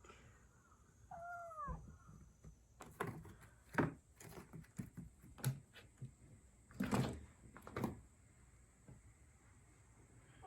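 A cat gives one short meow that falls in pitch about a second in. Then comes a run of sharp knocks and scuffling thumps from a kitten playing, about three to eight seconds in.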